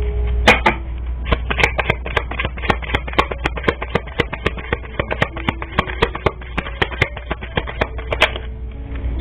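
A quick, irregular run of sharp clicks or taps, several a second, over a steady low hum and faint background music.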